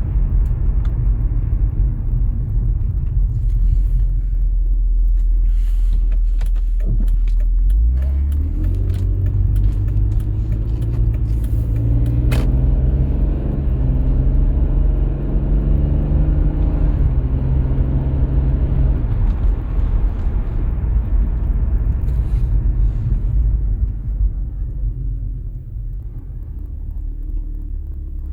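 BMW E46 330i ZHP's 3.0-litre inline-six idling in its first minute after a cold start. The idle note steps up about eight seconds in, holds, then slowly settles lower, quieter near the end.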